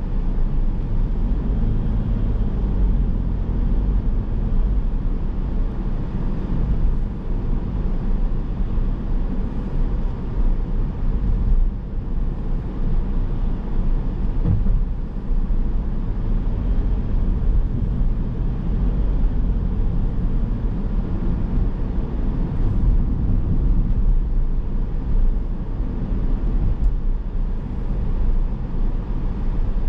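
A car driving on city streets: a steady low rumble of road, tyre and engine noise, with a small knock about halfway through.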